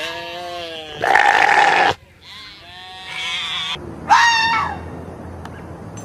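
A horned ram bleating several times in long, wavering calls, the loudest about a second in. A shorter call, falling in pitch, follows at about four seconds.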